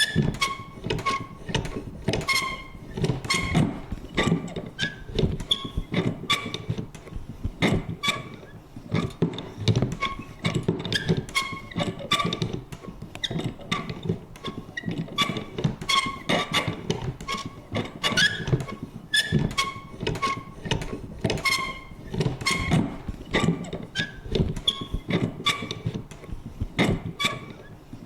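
Vintage paper punch worked over and over: an irregular run of sharp clicks, a few a second, many with a short squeak or creak.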